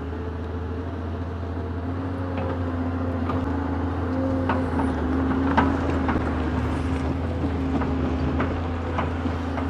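Excavator's diesel engine running under load during a test travel, with a steady whine and scattered sharp clicks and clanks, slowly getting louder. The machine, fitted with a new hydraulic pump, travels slowly and bogs the engine.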